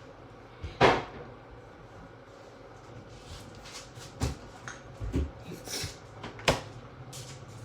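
A few sharp knocks and bumps of household objects being handled, like cupboard doors or drawers shutting. The loudest comes about a second in and the rest are spread through the second half.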